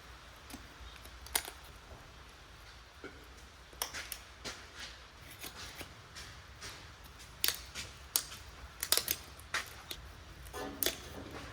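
Head gasket being worked off the cast-iron block of an International 1066 tractor engine: scattered light scrapes and sharp clicks, coming more often in the second half, as the stuck gasket is pried and peeled away.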